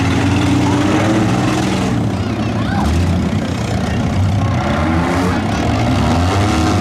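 Several demolition derby minivans and cars running at once, their engines revving up and down over one another in a loud, continuous din.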